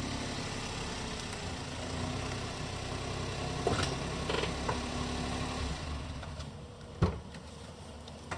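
A steady low mechanical hum like an idling engine, with one sharp knock about seven seconds in.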